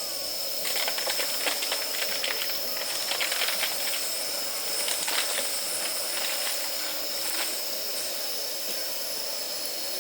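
Damp firewood burning in a campfire: irregular crackles and pops, thickest in the first half, over a steady hiss.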